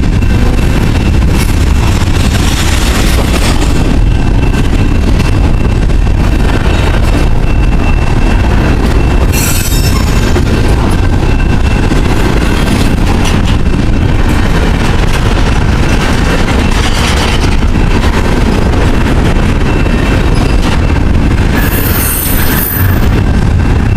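Freight train passing close by: a loud, steady rumble of wheels and cars, with a faint high ringing tone over it and short bursts of high wheel squeal about ten seconds in and again near the end.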